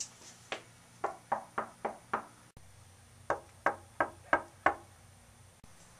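Knocking on a door: one knock, then two rounds of five quick, evenly spaced knocks with a pause between them.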